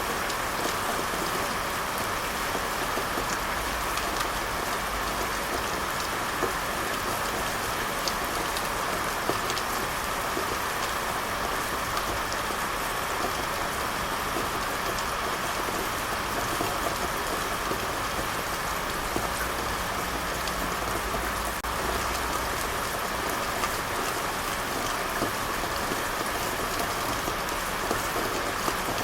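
Steady rain falling on a surface, an even hiss with faint scattered drop ticks throughout.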